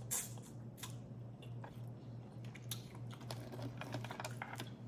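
Close-miked eating: chewing and biting with scattered soft crackles and clicks of food.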